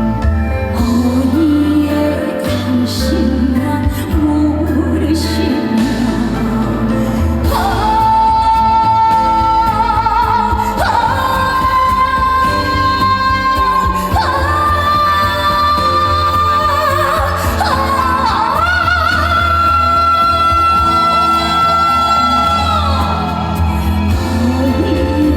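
A woman singing live with band accompaniment in a large hall, over a steady bass line. From about a third of the way in she holds a series of long high notes, each a couple of seconds, stepping higher with slides between them. The last and highest note is held the longest and falls away near the end.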